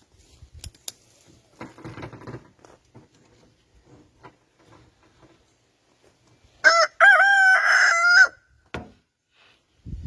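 A rooster crowing once, about seven seconds in: a short opening note, then one long pitched call of about a second and a half. Faint knocks and rustling come before it.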